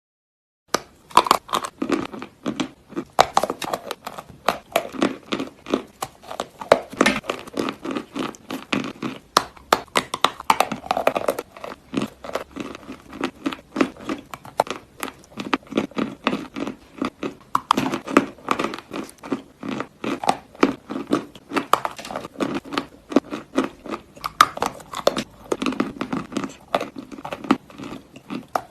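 Close-miked crunching and chewing of dry multani mitti (Fuller's earth clay): a dense, irregular run of crisp cracks and crackles, starting about a second in.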